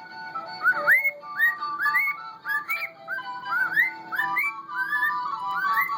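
A cockatiel whistling a string of short up-sweeping notes, about two a second, over tin whistle music with held notes.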